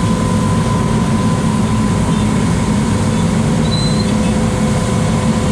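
Truck-mounted road sweeper running steadily, a loud constant mechanical drone with a steady higher hum over it.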